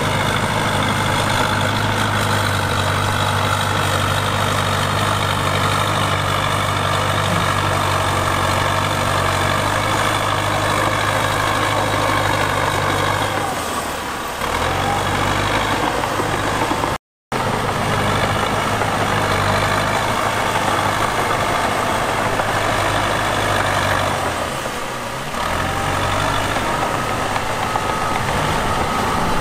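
Diesel engine of a CAT D3K2 XL crawler bulldozer running steadily. Twice, about 14 and 25 seconds in, the engine's pitch sags and then climbs back. The sound cuts out completely for a split second about 17 seconds in.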